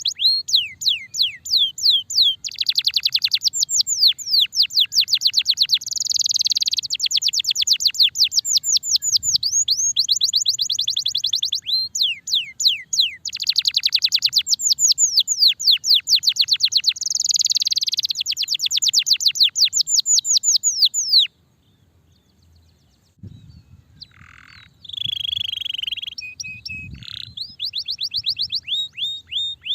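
Domestic canary singing a long song of fast trills, rapid rows of falling whistled notes. The song breaks off about two-thirds of the way through. After a couple of seconds it resumes with a few different notes, then trills again.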